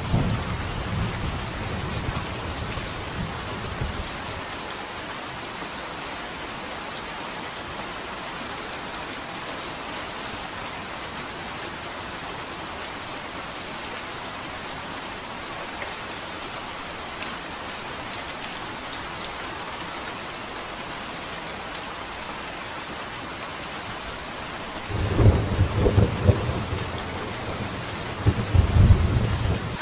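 Steady rain with thunder: a rumble dies away in the first few seconds, then rain alone, and a new roll of thunder rumbles in about five seconds before the end.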